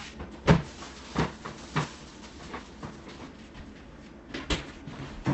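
A handful of sharp knocks and clunks, irregularly spaced, the loudest about half a second in: the sound of rummaging in a refrigerator to pull out a vegetable.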